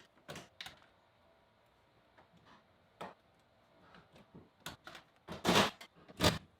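Scattered light clicks and knocks of hand work in a car's interior, from taking out the seats, with two louder, longer knocks near the end.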